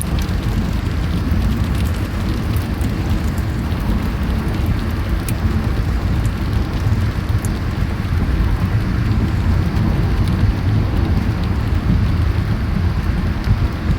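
Steady heavy rain during a thunderstorm, with a constant low rumble underneath and scattered sharp ticks of drops striking.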